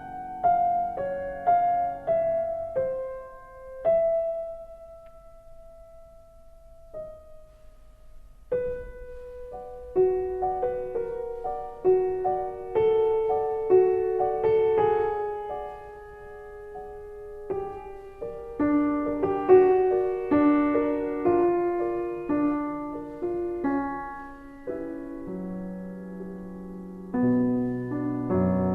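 Slow, gentle solo piano music: single notes and chords that ring and fade, thin and sparse in the first seconds with a long held note, then a fuller melody from about nine seconds in, with low notes joining near the end.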